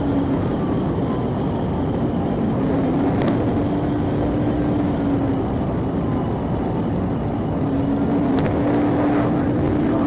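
A pursuing patrol car's engine and road noise at high speed, a steady drone. A faint siren wails in the background.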